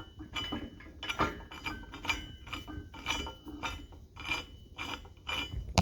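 Steel engine-stand parts clinking and ringing, about two knocks a second, as a threaded piece is turned by hand and works its way out. A sharp metal click comes at the very end.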